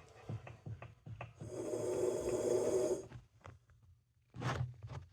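A person blowing air by mouth through the hose of a washing machine's water-level air chamber, one long blow lasting about a second and a half, then a short puff near the end, with small handling clicks. The blow pushes water back out of the air chamber into the drum, a sign that the chamber is no longer blocked.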